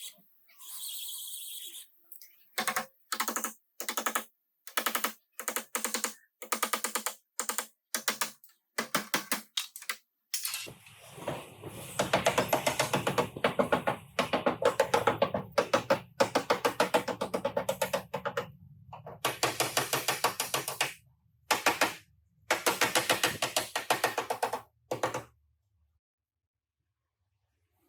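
Repeated bursts of fast crackling rattle from a body-shop tool, stopping and starting many times. The bursts are short at first, then run for several seconds at a time from about ten seconds in, with a low hum beneath the longer runs.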